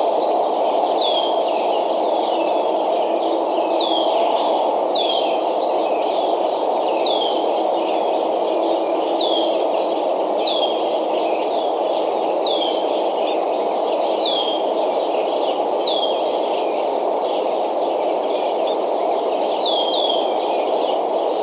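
A bird repeating a short, falling whistled note every second or two, with a quick double note near the end, over a steady rushing noise.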